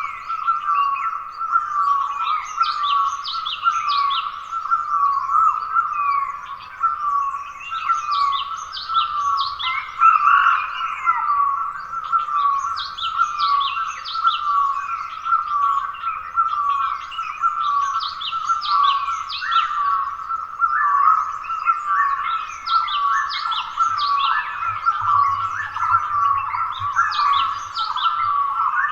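Dawn chorus of wild forest birds. One call repeats a short note about twice a second without a break, while other birds sing bursts of high, falling chirps every few seconds.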